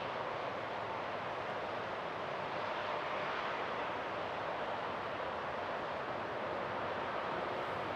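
Jet airliner engines heard at a distance, a steady rushing noise that holds an even level throughout.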